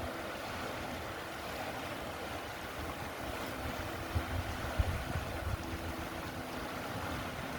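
River water running steadily, with wind rumbling on the microphone and a couple of sharp bumps a little past the middle.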